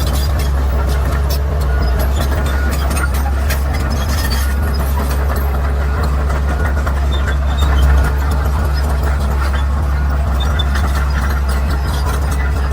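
Bulldozer's diesel engine running steadily at a low pitch, with scattered clicks and knocks over it and a brief louder surge about eight seconds in.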